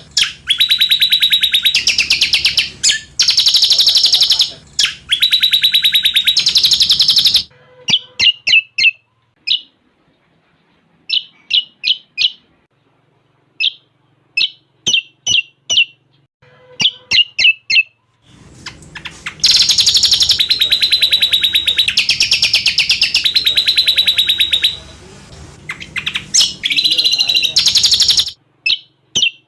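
Cucak combok bird song, with phrases in cililin style: long, very fast rattling trills lasting several seconds, and in the middle a run of short, sharp chirps.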